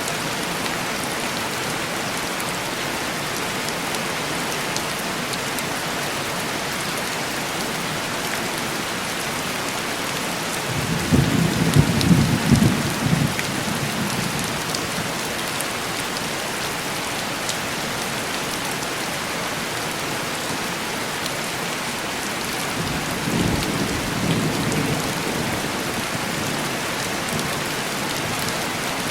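Steady heavy rain tapping on window glass, with two rolls of distant thunder: a louder rumble about eleven seconds in lasting some three seconds, and a fainter one later.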